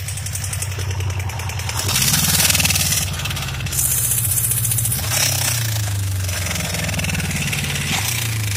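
Suzuki GSX600F Katana inline-four engine running with a knock, its revs rising briefly about two seconds in and again around four seconds in. The owner places the knock in the cylinder head: a high, clicking knock, not the crankshaft, possibly valves needing adjustment or a camshaft problem.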